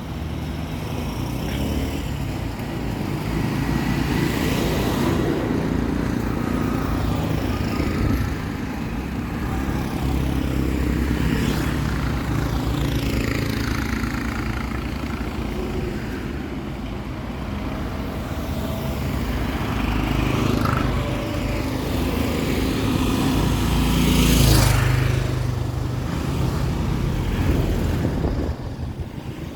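Town street traffic: the engines of road vehicles running steadily, with one vehicle after another passing close by. The loudest pass comes about twenty-four seconds in.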